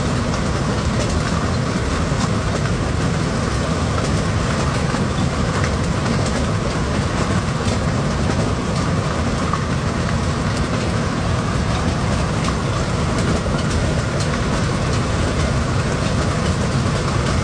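Steady rain with many small ticks of drops over a constant low rumble.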